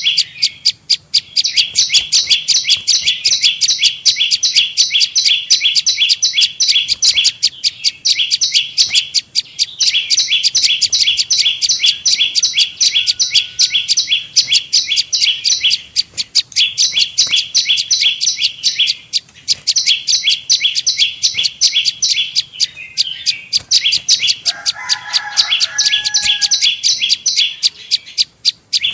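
Prenjak lumut call played as a bird lure: a fast, continuous train of high, sharp chirps repeated many times a second, breaking off briefly a few times. About 24 seconds in, a short lower-pitched call sounds beneath it.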